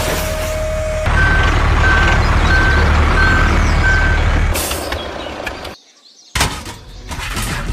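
Vehicle reversing alarm beeping five times at one steady pitch, about one and a half beeps a second, over a low engine rumble. The beeping stops about four seconds in; after a brief near-silent gap, a few knocks follow near the end.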